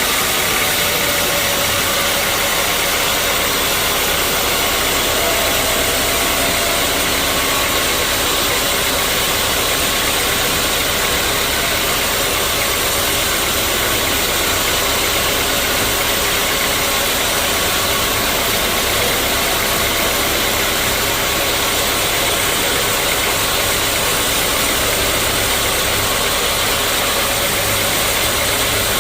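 Sawmill machinery running with a loud, steady noise that holds unchanged throughout.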